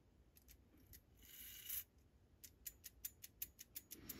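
Faint handling of a clock movement's brass parts: a short scrape about a second in, then a quick run of small, fairly regular metallic clicks from about halfway through.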